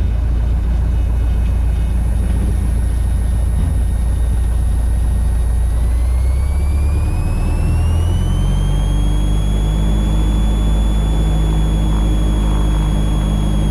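Van's RV-8 light aircraft engine and propeller running at low taxi power in the cockpit. About six seconds in, a whine rises in pitch and the engine note climbs over the next two seconds, then holds steady as power is added.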